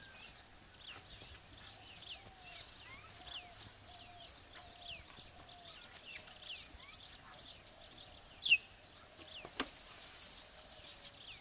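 Birds chirping, with many short falling calls repeating about twice a second over a lower repeated call. One loud chirp stands out about eight and a half seconds in, and a single sharp click follows about a second later.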